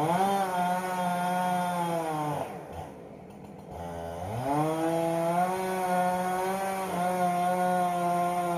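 Two-stroke chainsaw cutting into a maple tree, revved to full throttle twice. It holds a high steady note for about two and a half seconds, drops back briefly, then revs up again about four seconds in and runs on to the end.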